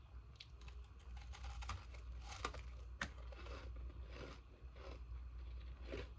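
Ice being chewed close to the microphone: a steady run of crisp crunches, with two sharper cracks around the middle.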